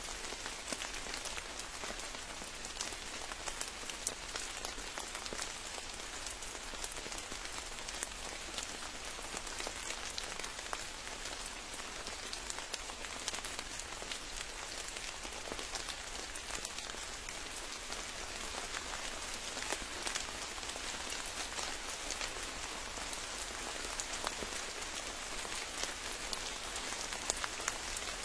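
Steady rain falling, a dense hiss dotted with many sharp little drop ticks.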